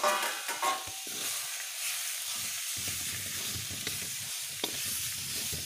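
Spinach and paneer sizzling in a kadai while being stirred and mixed with a metal ladle, with a few sharp clicks.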